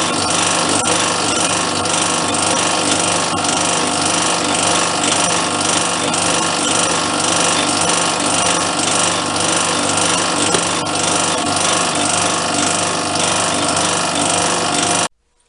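Metal lathe running steadily while taking a cut, a dense machine noise with several steady tones; the cut is going nicely. It cuts off suddenly near the end.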